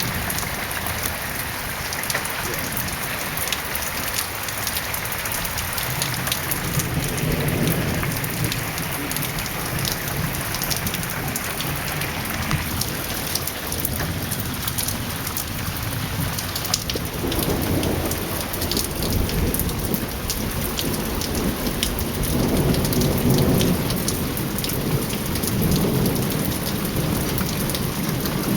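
Heavy rain pouring down, with many close drop ticks over a steady hiss, and low rolling thunder that swells several times, strongest about a third of the way in and again over the last third.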